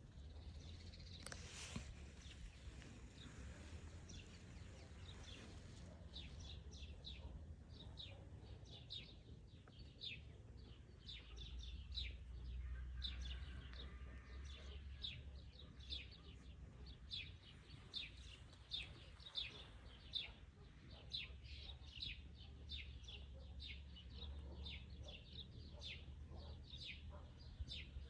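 Small birds chirping: many short, high chirps repeating irregularly, thickening from about six seconds in, over a low steady rumble.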